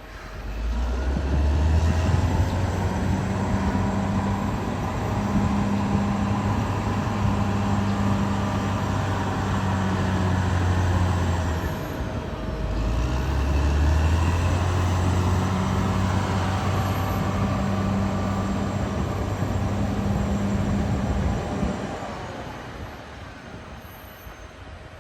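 Caterpillar D6R XL bulldozer's diesel engine running under load, coming up in pitch about half a second in and holding, easing off briefly about halfway through before rising again, then falling away over the last few seconds.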